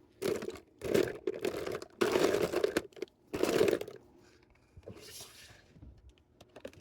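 Plastic packaging crinkling as small items are handled and rummaged through, in four loud bursts over the first four seconds, then softer rustling.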